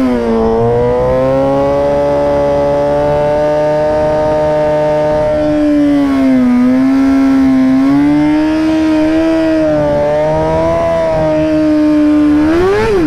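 Sport-bike inline-four engine held at steady raised revs, the pitch wavering slightly, then blipped up sharply and dropped back near the end.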